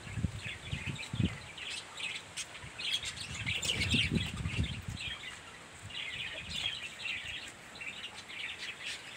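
A flock of caged budgerigars chirping and twittering in bouts of rapid high calls. Low rumbling bursts come twice, at the start and again about three to four seconds in.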